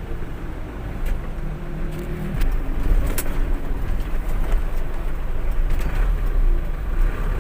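Truck running with a steady low rumble, with a few sharp clicks or knocks through it.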